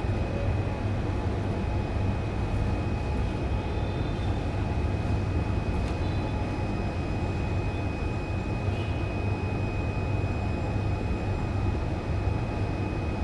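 Steady low rumbling hum with a thin, steady high-pitched tone above it, and a few faint, brief chirps now and then.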